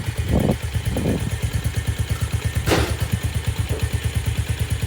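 Yamaha TT-R50's small four-stroke single-cylinder engine idling with an even, steady putter that sounds normal, even though the engine is puffing heavy oil smoke, which the owner thinks could be worn rings, a bad top end or a leaking valve. A short sharp clack just under three seconds in.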